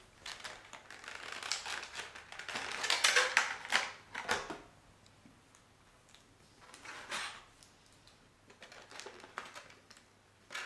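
Packaging of a boxed model airliner being handled and opened by hand: bursts of scratchy rustling and small clicks. The longest and loudest stretch comes in the first few seconds, with shorter bursts about seven and nine seconds in.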